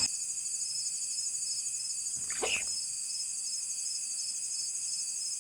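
Crickets chirping in a steady, rapidly pulsing chorus. A brief rising sound cuts in about halfway through.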